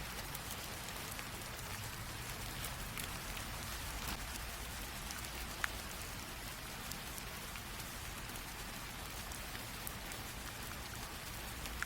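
Light rain drizzle: a steady patter with many small, separate drops ticking, one a little sharper than the rest about halfway through.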